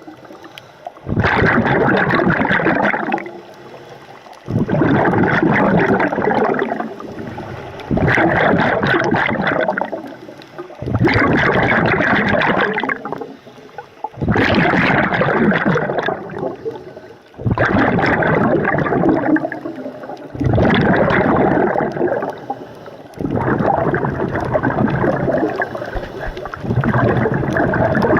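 A diver breathing underwater through a scuba regulator: bubbling exhalations of about two seconds each, repeating roughly every three seconds, about nine in all, with quieter inhalations between.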